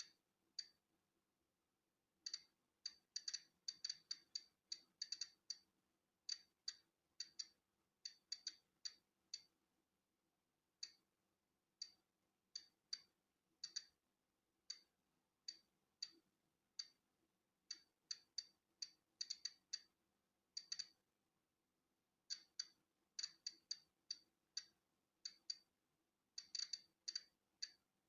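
Polon EKO-C digital Geiger counter clicking: short, sharp clicks at random intervals, sometimes several in quick succession and sometimes a gap of a second or more. Each click is a detected particle, at the slow count of natural background radiation.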